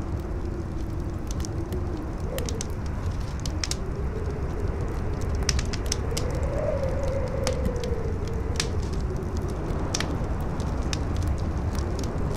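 Campfire crackling with irregular sharp pops and snaps, over a steady low rumble of strong wind. A howling wind tone wavers through it, rising to a peak about halfway through and then sinking again.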